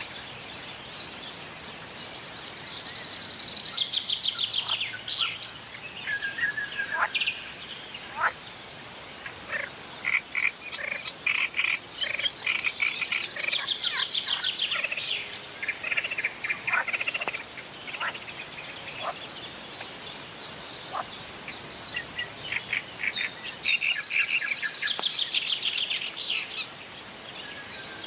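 Frogs and birds calling: three loud bouts of rapid, high trilling, each two to three seconds long and about ten seconds apart, with scattered short chirps and calls in between.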